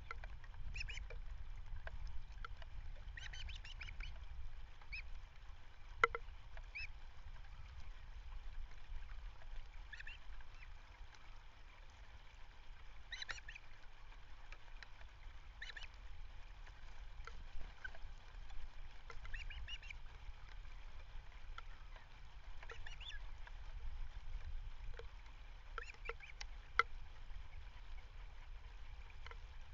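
Short bird calls every few seconds over a steady low rumble. The calls are brief, high chirps and squawks, likely from waterfowl and other wild birds around the bay.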